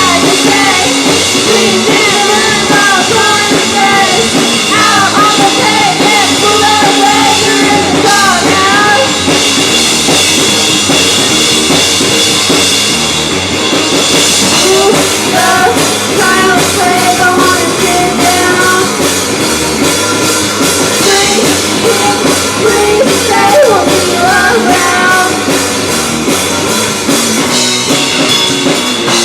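A live rock band playing loud, with a full drum kit driving the song and a singing voice in places.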